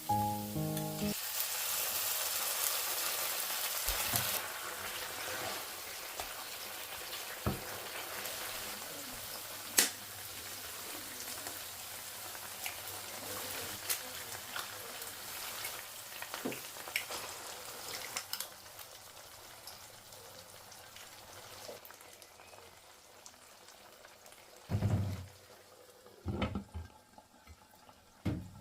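Food frying in a pan: a steady sizzle that slowly fades, with occasional sharp clicks, and a few low thumps near the end.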